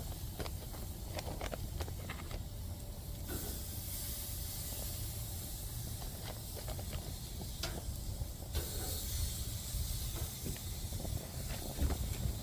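Jerk-marinated chicken wings sizzling on a grill: a steady hiss that swells from about three seconds in and eases back past the middle, over a low rumble, with a few light clicks.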